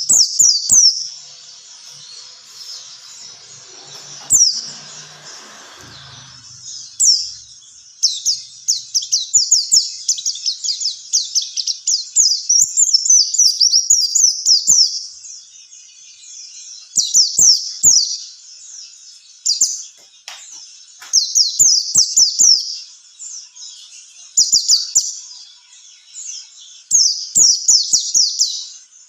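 White-eye (pleci) singing: bursts of rapid, high-pitched, downward-slurred chirps separated by short pauses. The song is sparse at first and becomes dense after the first several seconds.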